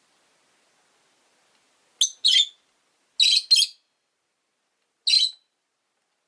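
Rosy-faced lovebirds chirping: five short, high-pitched calls starting about two seconds in, coming as two quick pairs and then a single call.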